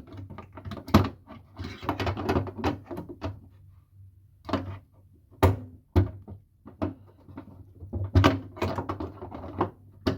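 Hard plastic clicks, knocks and rustling as washing machine parts are handled and fitted back in place, over a faint low steady hum.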